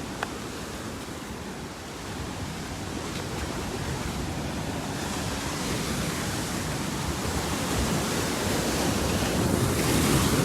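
Sea surf washing in steadily, mixed with wind on the microphone, growing gradually louder.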